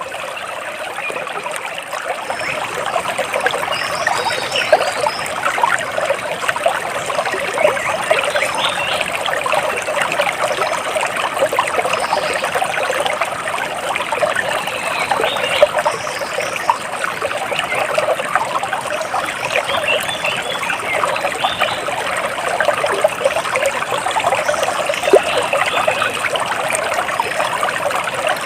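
Water splashing and trickling steadily, as of a stream running over rocks, with a few faint bird chirps now and then above it.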